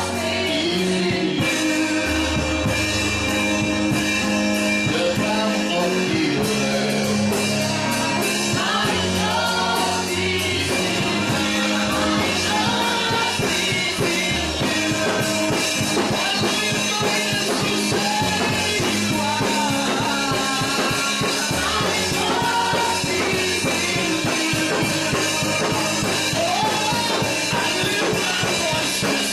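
Praise-and-worship band music with singing, over a steady drum beat and sustained bass notes.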